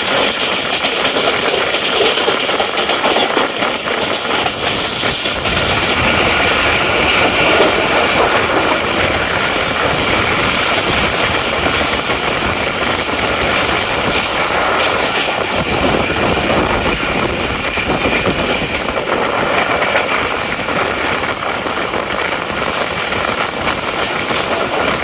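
Tezgam Express passenger train running along the track: a steady rolling noise of wheels on rails, with faint clicks from the rail joints.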